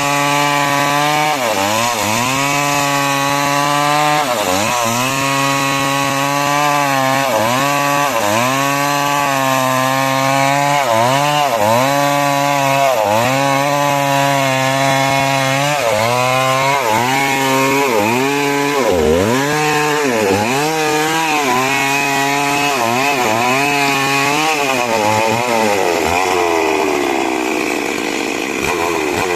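Chainsaw cutting timber into 6 × 6 cm rafters, running loud and steady, its engine pitch dipping and recovering every second or so as the chain bogs in the wood, and sagging lower near the end.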